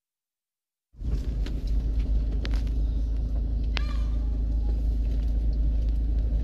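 Steady low rumble of a vehicle on the move, starting abruptly about a second in, with a few faint clicks and a short falling squeak near the middle.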